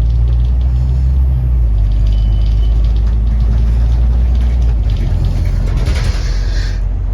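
Interior drone of a Scania N270UD double-decker bus's five-cylinder diesel running steadily under way; about five seconds in the engine note drops away as it eases off, and a brief hiss follows near the end.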